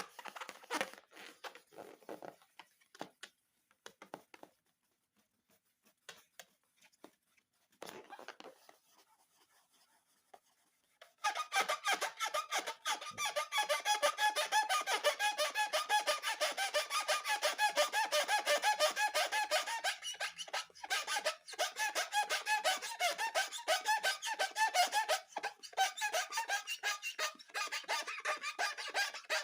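Rubber balloons being handled: a few faint scattered clicks and rubs at first, then from about eleven seconds in a dense, fast run of squeaks as the balloon rubber is rubbed and squeezed.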